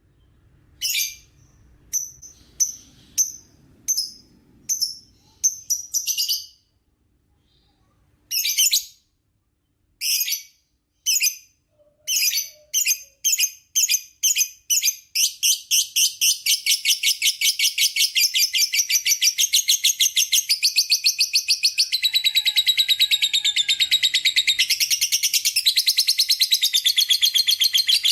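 Lovebird calling: short separate bursts of chattering for the first half, then, about halfway through, a long unbroken rapid trill of many pulses a second. This is the drawn-out 'ngekek' song.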